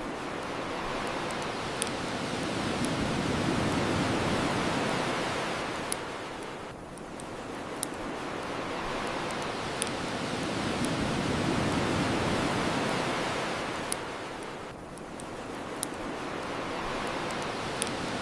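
Ocean waves washing onto the shore, the surf swelling and falling back about every eight seconds, with the sharp single pops of a crackling bonfire every couple of seconds.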